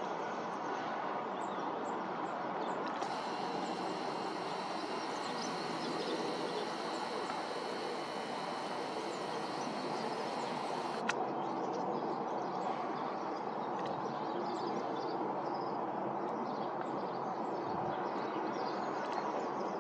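Steady outdoor background rumble, like distant traffic, with faint bird chirps scattered over it, more of them in the second half.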